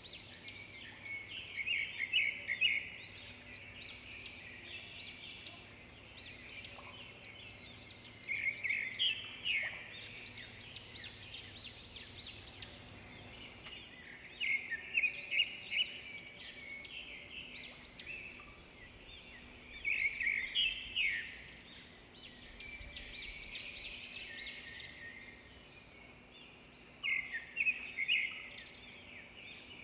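Birds calling in a rainforest: five bursts of rapid, chattering chirps, recurring about every six to seven seconds over a faint steady background.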